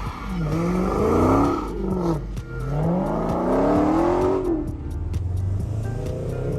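A car engine revving up and down repeatedly, its pitch rising and falling about three times before settling near the end.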